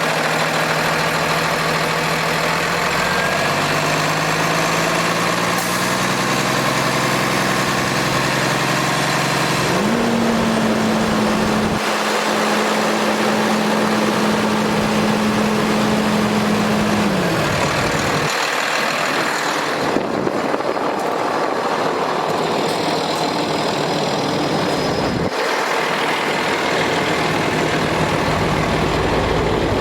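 Cummins ISC six-cylinder diesel of a Freightliner M2 truck idling steadily. A steady hum holds for several seconds in the middle, and the sound changes abruptly several times.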